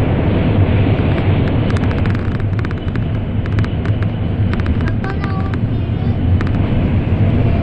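Interior running noise of an N700-series Shinkansen at speed: a steady rumble and rush, easing slightly a couple of seconds in as the train comes out of a tunnel, with a scatter of faint light ticks through the middle.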